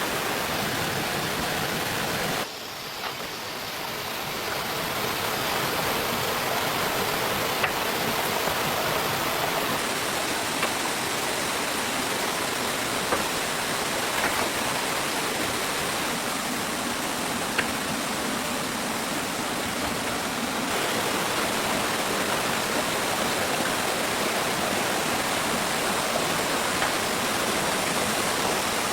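Steady rushing noise like running water, with a few faint clicks. The noise briefly drops about two and a half seconds in and then builds back up.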